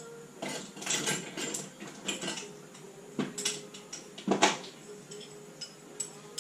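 Metal tools and parts clinking and knocking in an irregular series, the loudest knock about four and a half seconds in.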